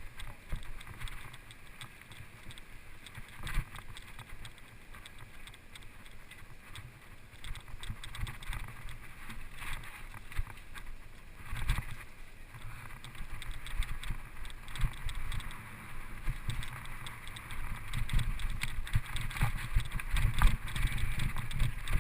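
Footsteps scuffing and knocking over rock and brush on a trail, with wind and handling rumble on the microphone. The sounds come irregularly and grow louder in the last few seconds.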